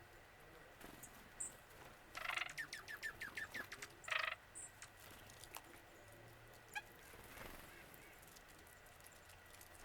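Wild birds calling: a harsh call about two seconds in, then a quick run of short, evenly spaced notes, and another harsh call just after four seconds. Faint, very high, thin notes come here and there.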